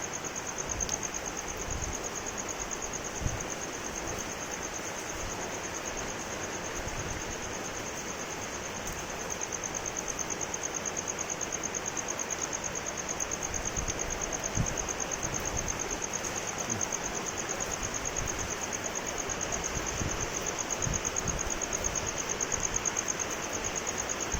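Steady rain falling, with an insect's high, rapidly pulsing trill held over it and a few soft low knocks.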